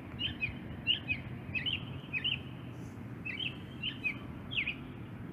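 A bird chirping: a quick series of short, high chirps that slide down in pitch, often in twos, over a steady low background rumble.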